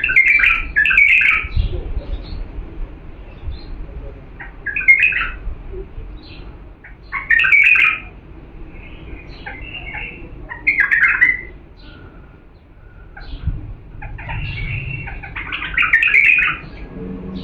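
Bulbul singing: five short, loud, warbling song phrases a few seconds apart, the last one the longest.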